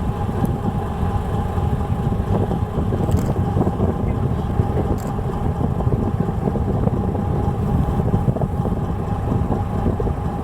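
A fishing boat's engine running steadily: a low rumble with a thin steady hum above it.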